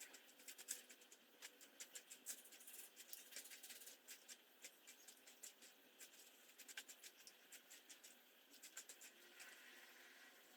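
Faint, quick, irregular light clicks and scratches of flour being worked into a dough in a bowl.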